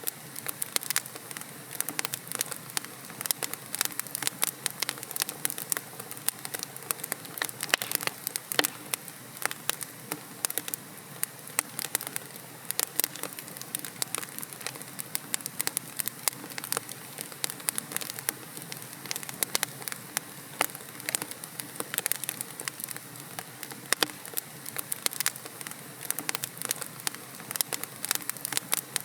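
Wood logs burning in a fireplace: a steady hiss with dense, irregular crackles and pops.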